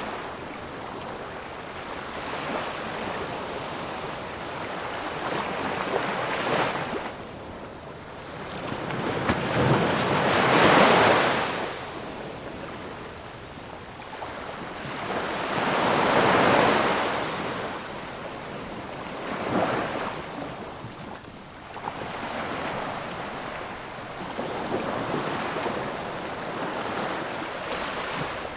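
Ocean waves breaking on a shore, the surf swelling and fading in a slow rhythm, with the two biggest breakers about ten and sixteen seconds in.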